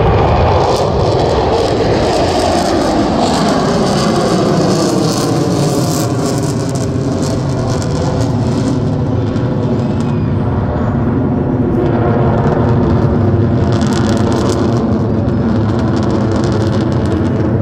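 Jet noise from Blue Angels F/A-18 Super Hornets flying past: a loud, dense jet sound whose pitch drops over the first few seconds as the jets go by, then a steady drone.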